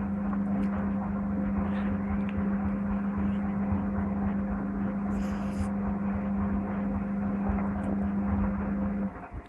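Servis Gem M310 washing machine's drain pump humming steadily as it empties the drum, cutting off abruptly about nine seconds in, ahead of the spin.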